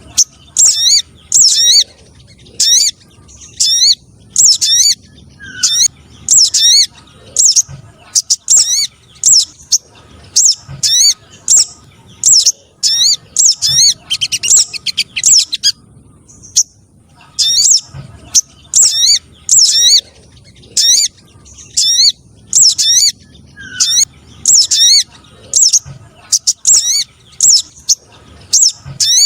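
Sogon (spiderhunter) calls from a bird-lure recording: short, high, loud chirps repeated about twice a second, with a brief pause about halfway through.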